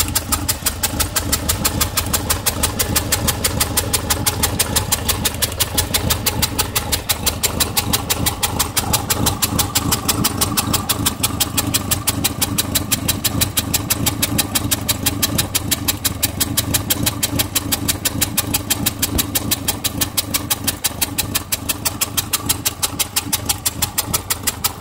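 A 1983 Alfa Romeo Spider Veloce's twin-cam four-cylinder engine idling, with a rapid, even tick-tick over its steady hum. The owner takes the tick for an exhaust leak at the manifold, though he can't find one.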